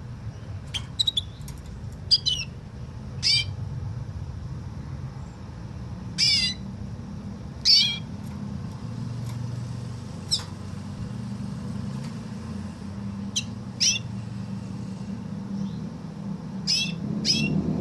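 Canary singing woodlark-style notes: short, sharp whistles that each fall steeply in pitch, spaced a second or more apart with some in quick pairs, over a steady low hum.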